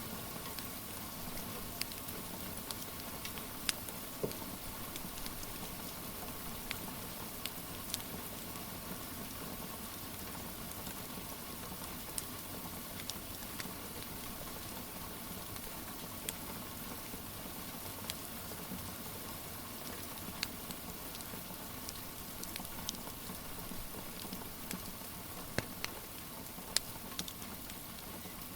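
Steady rain with the scattered sharp crackles and pops of a wood fire.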